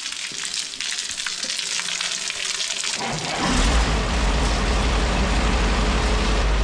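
A steady hissing; about three seconds in, a motor starts and runs with a steady low hum under the hiss.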